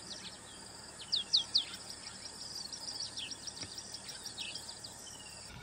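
Small birds chirping in many quick, falling notes, with two louder calls about a second in, over a steady high-pitched buzz.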